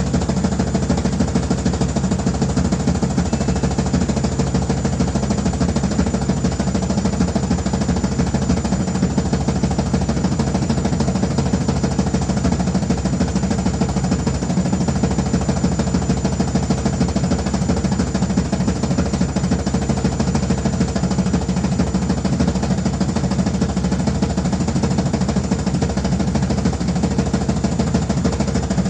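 Washing machine running loudly and steadily, a dense low rumble with a fast, even rattle that does not change.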